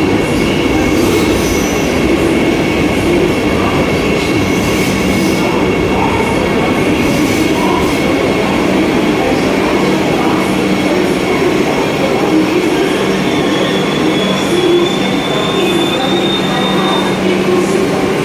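Vande Bharat Express electric trainset rolling slowly along the platform as it pulls in: a steady running rumble with an even electric hum. A thin high squeal rises above it for a few seconds past the middle.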